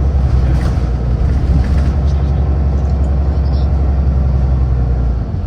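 MBTA transit bus engine running with a steady low drone, which eases a little near the end.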